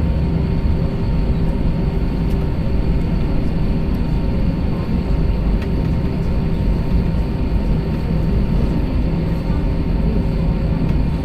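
Airbus A321 jet engines and airflow heard from inside the cabin: a loud, steady rumble with a few steady hums over it.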